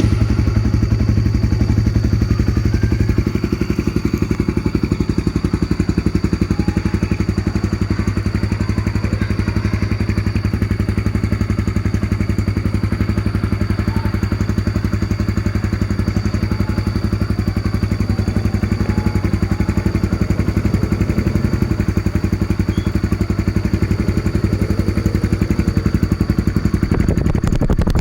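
Honda CB150R's single-cylinder engine idling steadily through an aftermarket Tirev exhaust, a fast, even pulsing beat.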